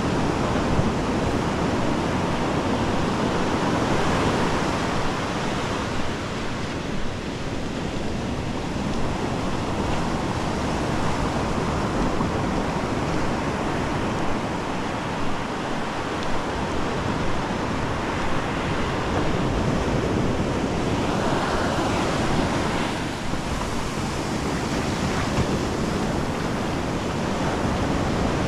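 Ocean surf breaking and washing up the beach in a steady rush that swells gently now and then.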